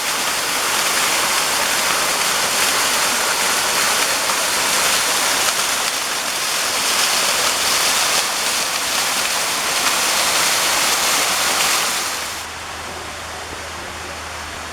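Loud, steady rush of a waterfall. About twelve seconds in it drops suddenly to a quieter, duller rush with a low hum beneath.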